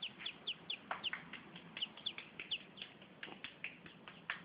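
Small birds cheeping: a rapid string of short, high chirps, each falling in pitch, several a second, that stops near the end.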